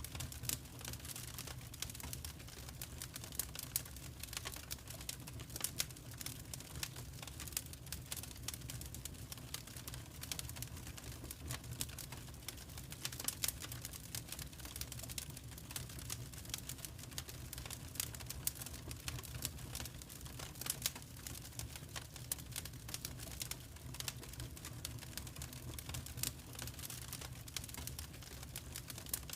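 Wood fire crackling: many small irregular snaps and pops over a steady low rumble of the flames.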